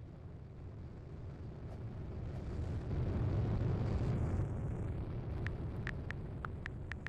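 A car passing by: a low, noisy rumble that builds to its loudest in the middle and then fades away, with a few sharp ticks near the end.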